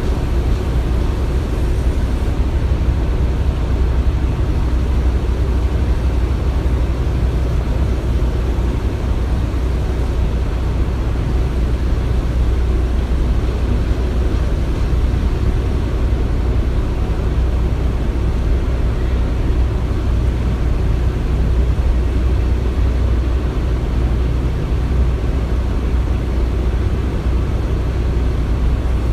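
Construction-site ambience: a steady low rumble of heavy machinery running, with no distinct knocks or strikes standing out.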